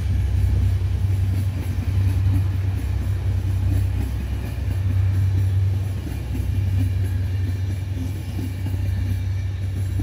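Diesel engine of an HŽ class 2044 (EMD GT22HW-2) locomotive running with a steady low drone.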